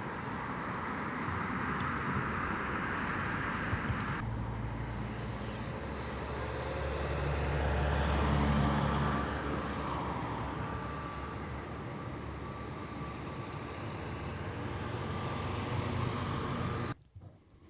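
Road traffic: a motor vehicle's engine and tyres rising as it passes close, loudest about eight or nine seconds in, over steady traffic noise; the sound cuts off abruptly near the end.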